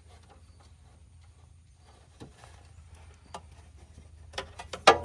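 Scattered light clicks and knocks of hand tools working a stuck spark plug wire boot off a spark plug, with a quick cluster of sharper clicks near the end.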